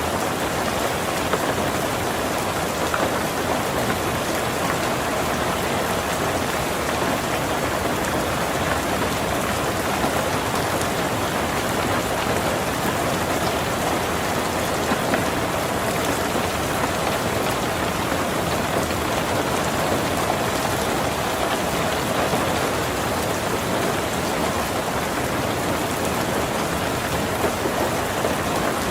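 Heavy rain falling steadily on a tin roof, a dense even patter with small scattered drop ticks.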